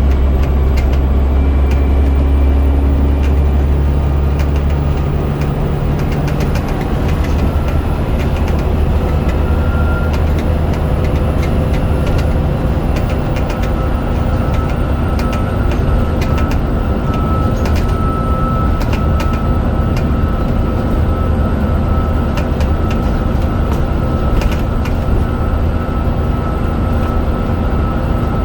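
Scania DC9 9.0-litre five-cylinder diesel of a double-decker bus running under way, heard from on board, with body rattles throughout. The deep engine drone eases about five seconds in, and a steady whine carries on after it.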